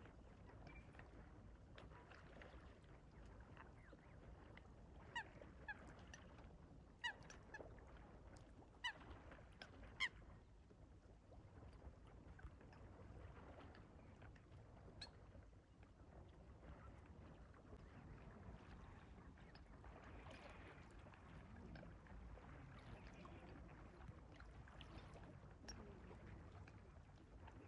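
Swans calling on a lake: a cluster of about six short honking calls between roughly five and ten seconds in, over a faint low background rumble.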